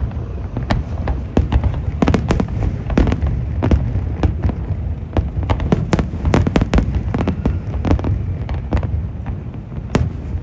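Fireworks show at its height: aerial shells bursting in a rapid, irregular barrage of bangs, several a second, over a steady low rumble.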